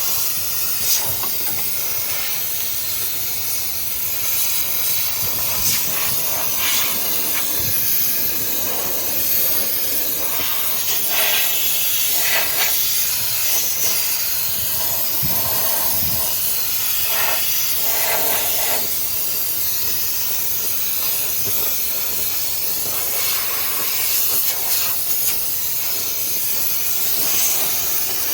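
Small handheld steam cleaner hissing steadily as it jets steam, swelling louder every few seconds.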